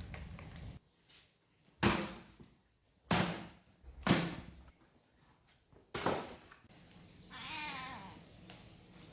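Four sharp knocks about a second apart, then a cat meowing once, a wavering call about a second long near the end.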